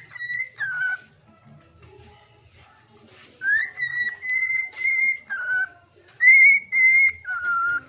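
A pet bird whistling a sholawat tune in clear whistled notes that step between a higher and a lower pitch. One short phrase opens it, then a pause of about two seconds, then two longer phrases.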